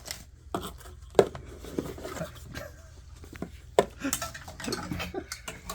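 Scattered knocks and clicks of objects being handled, a few sharper taps standing out among quieter rustling.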